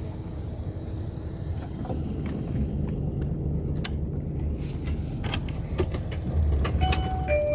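Isuzu dump truck's diesel engine running with a steady low rumble that grows a little louder, with several sharp clicks and knocks. Short electronic warning tones sound near the end.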